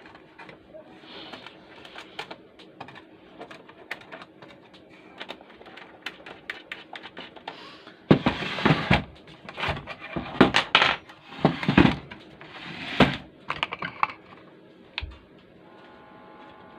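Small metallic clicks and scrapes of a screwdriver and screws as a replacement transistor is tightened down in a power amplifier. From about eight seconds in come louder knocks and rubbing as the metal chassis is handled.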